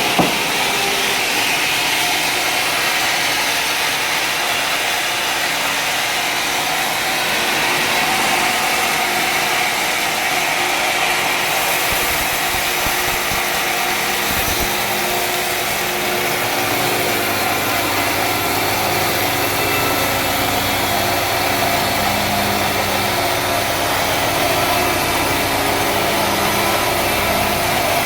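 Sawmill machinery running: a steady engine and saw noise, with a deeper engine hum setting in about sixteen seconds in.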